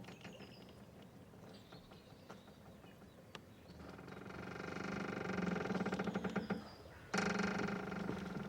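Boat's rope creaking and squeaking under strain in long, drawn-out squeals. The first builds up about four seconds in and stops, and another starts abruptly near the end.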